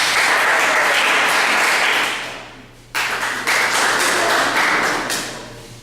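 Audience applauding in two bursts, each starting at full strength and dying away over a couple of seconds; the second begins about three seconds in.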